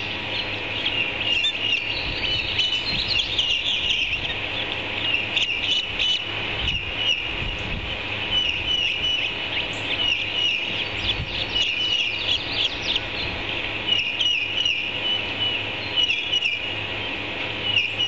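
Birds chirping: runs of short, high chirps repeat over and over, over a steady low hum.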